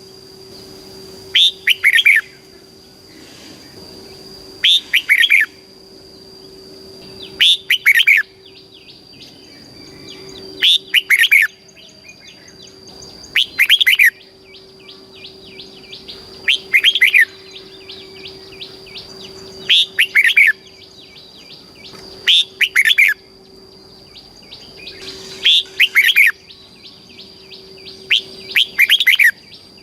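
Red-whiskered bulbul singing short, loud whistled phrases, one about every three seconds, with fainter chattering bird calls between them.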